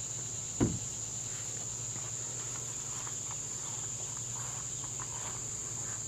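Crickets chirring in a steady, high, unbroken drone, with a single low thump about half a second in.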